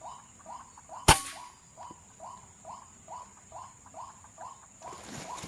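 A single shot from an FX Crown .177 PCP air rifle, one sharp crack about a second in. Under it a steady high insect whine runs until near the end, and a short call repeats a little over twice a second throughout.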